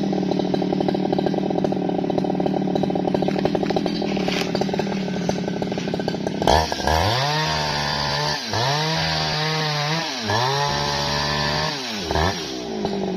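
Jonsered chainsaw engine running at steady high speed. About halfway through it is revved three times, each rev climbing from low and then dropping away, followed by a short blip before it settles back to a steady high speed near the end.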